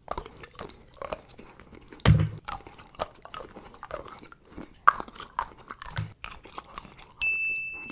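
Milka chocolate being bitten and chewed close to the microphone: crisp crunches and wet chewing clicks, with a louder bite about two seconds in. A steady high-pitched tone comes in near the end.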